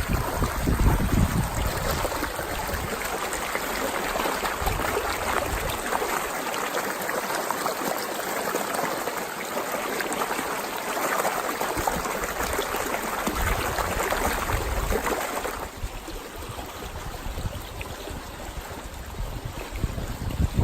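Water flowing steadily along a stone water channel, an even rushing and trickling, that turns quieter and duller about fifteen seconds in. Wind buffets the microphone now and then.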